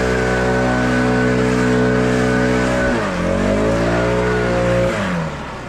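Engine running at high speed. Its pitch sags briefly about three seconds in, as if under load, and recovers, then falls near the end as it is throttled down.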